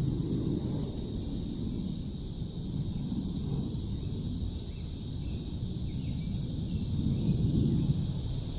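Outdoor insect chorus, a steady high buzzing that pulses in long waves, over a low rumble that swells and fades.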